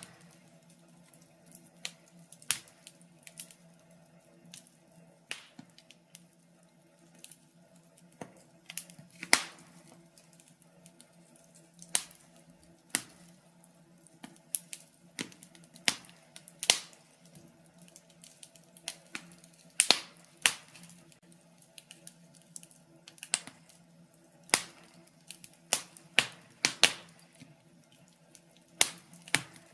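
Wood fire crackling, with sharp irregular pops every second or two over a faint steady hum.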